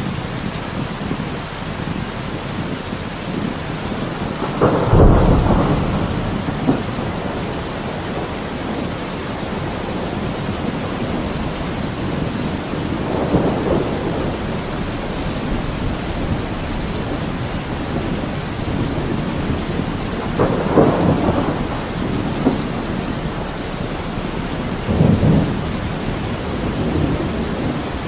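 Thunderstorm: steady heavy rain with rolls of thunder rumbling through it four times, the loudest clap about five seconds in.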